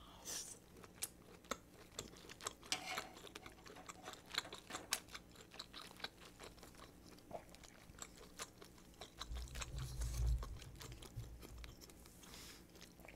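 Close-miked chewing of a butter-grilled abalone, with many small wet clicks and smacks from the mouth. A brief low rumble comes about nine seconds in.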